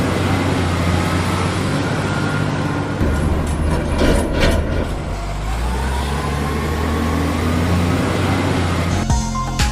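A heavy truck engine running steadily, its pitch shifting about three seconds in, with a short burst of hiss about four seconds in. Music starts near the end.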